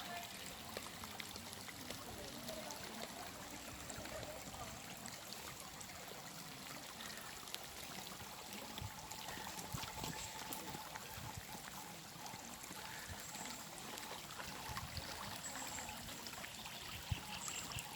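Water trickling and babbling steadily, like a small stream, with faint short high calls now and then.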